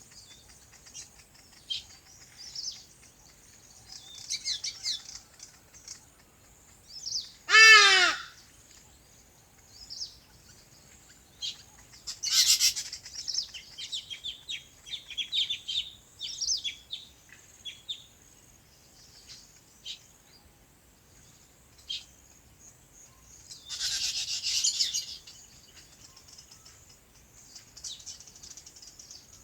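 Small birds chirping, many short high calls scattered through, with one loud harsh call about eight seconds in and two brief noisy bursts near twelve and twenty-four seconds.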